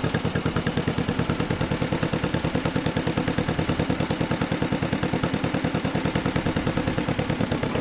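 1955 John Deere 40S tractor's two-cylinder engine running steadily as the tractor drives forward, a rapid, even beat of firing pulses.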